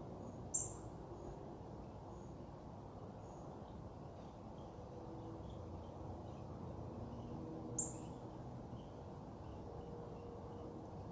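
Small birds chirping faintly over steady outdoor background noise, with two short, sharp high-pitched sounds: one about half a second in and one about eight seconds in.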